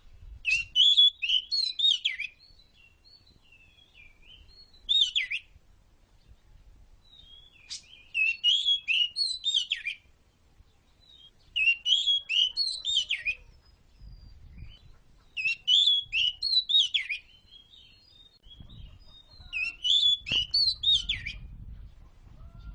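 Oriental magpie-robin singing: about six bursts of rich, fast-changing whistled phrases, each one to two seconds long, with short pauses between them.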